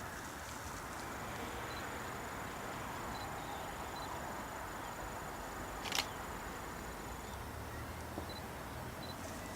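Cessna 172S's four-cylinder Lycoming engine running steadily at low power while the aircraft taxis to parking, with a single sharp click about six seconds in.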